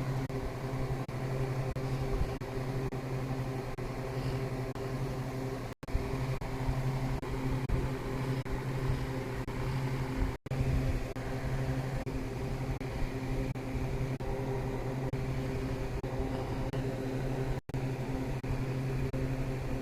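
A steady mechanical hum, a low drone with several held tones above it, cutting out briefly to silence three times.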